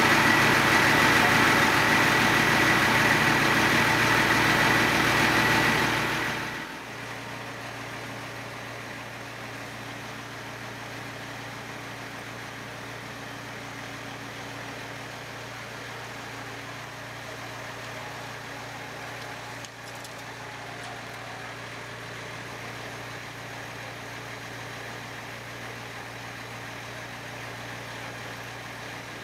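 Vehicle engine idling steadily. For the first six seconds or so it is louder and noisier, with a steady high tone over it; then the level drops sharply to a steady low hum.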